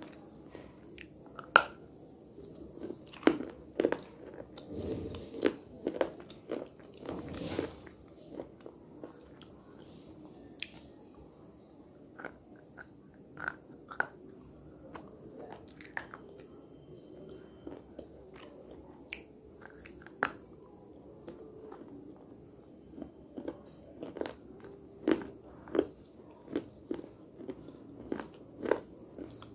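A person biting and chewing pieces of edible clay and slate close to the microphone: irregular sharp crunches over softer chewing, thinning out midway and coming thick again near the end.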